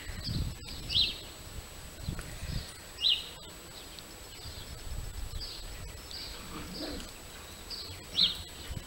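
Birds chirping: short high calls repeated every second or so, three of them louder than the rest, over a low rumble.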